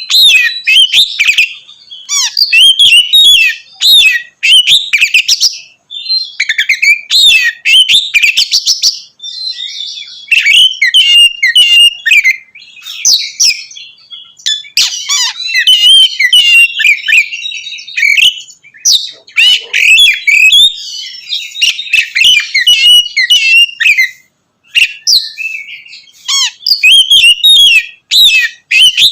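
Oriental magpie-robin (kacer) singing loudly in long runs of rapid, varied whistles, slurred notes and sharp clicking phrases, with short pauses between bouts.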